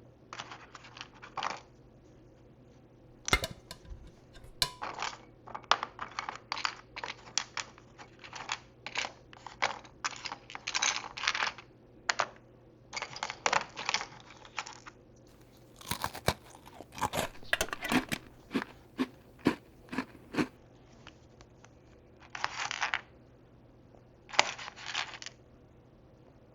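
Small plastic miniature food pieces and tiny dishes being handled and sorted: irregular light clicks and taps, with short bursts of rustling, in clusters separated by brief pauses.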